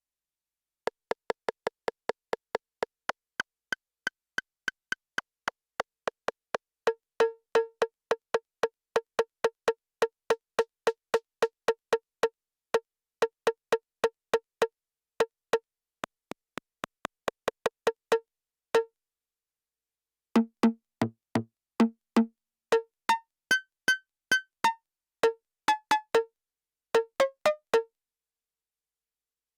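Elektron Syntakt's analog rimshot machine (AR RS Hard) playing short, dry rimshot hits in a steady pattern of about four a second, pitched near 500 Hz. After a short pause past the middle, the pattern returns with the pitch changing from hit to hit, some notes much lower.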